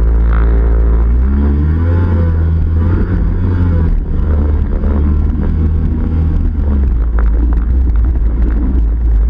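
Yamaha 701 two-stroke twin with an aftermarket Riva expansion pipe, idling low and then revved about a second in, its pitch rising and falling through several blips before settling into a rougher, uneven run.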